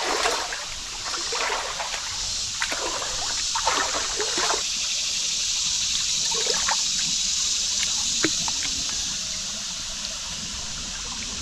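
Creek water running and trickling steadily over rocks, with a few short splashes and knocks, most of them in the first half.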